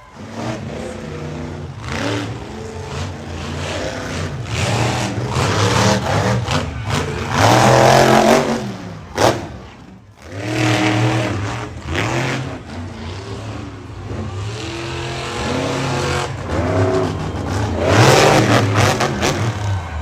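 Monster truck engine revving hard, its pitch climbing and falling again and again. It is loudest about eight seconds in and again near the end, with a brief sharp bang just after the first peak.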